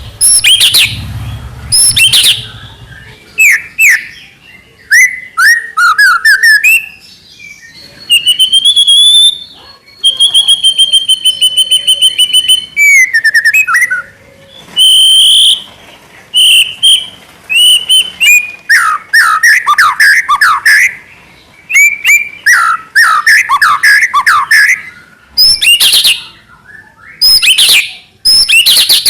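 White-rumped shama (murai batu) singing loudly in a long, varied run of phrases: fast trills of repeated notes, whistled notes and quick falling slurs, mixed with sharp short calls.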